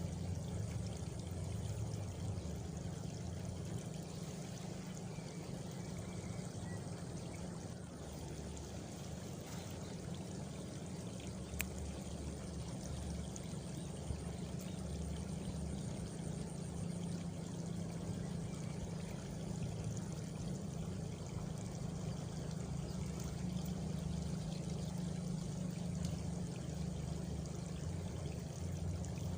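Steady running water, an even rushing flow like a small stream or channel. A faint high cricket trill comes and goes in the middle, and there is a single sharp click about twelve seconds in.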